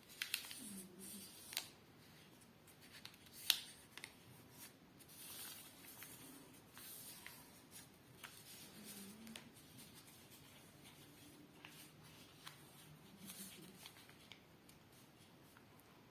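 A sheet of paper being folded and creased by hand: faint rustling broken by short, sharp crinkles as folds are pressed down, the loudest about three and a half seconds in.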